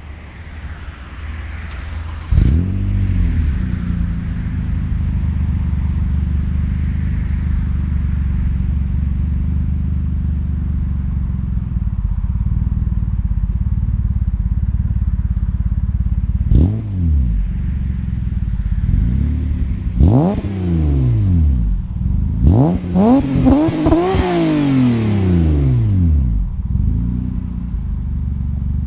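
Ford Probe's 2.5-litre 24-valve V6 idling through a Magnaflow performance exhaust. It is blipped once about two seconds in, again near the middle, and then in a quick series of revs that rise and fall back toward the end.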